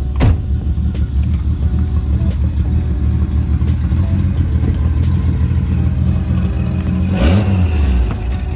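1950 Hudson Commodore's engine running at idle with a steady low rumble, and a short throttle blip about seven seconds in. Just after the start there is a brief falling swoosh.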